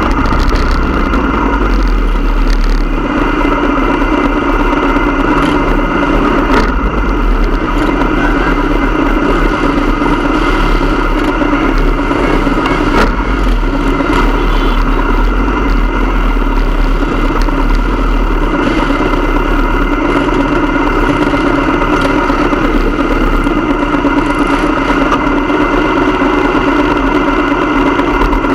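Motorcycle engine running loud and steady at an even pitch, with no break or change in speed.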